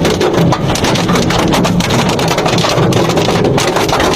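Heavy hail falling: a loud, dense, unbroken clatter of hailstones striking hard surfaces, with rain noise underneath.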